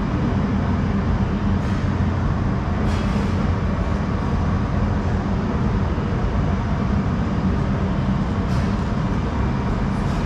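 Rack railway train running: a steady low rumble with a few faint clicks.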